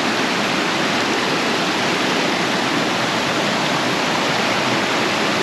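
Waterfall and river water rushing in a loud, steady, unbroken roar.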